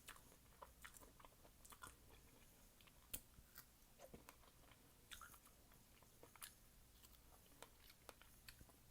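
Faint close-up chewing of fresh fruit: irregular wet mouth clicks and small crunches.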